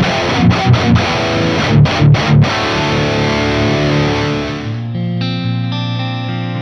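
Solar A1.6D electric guitar through a Boss Katana 100 MkII amp on a high-gain distorted tone, playing a tight riff with short staccato stops. About two thirds of the way through it switches to a less bright, ringing sustained chord, and a fresh chord is struck near the end.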